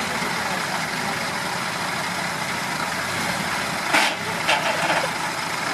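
A Ford Model A engine idling steadily, with two short louder sounds about four seconds in.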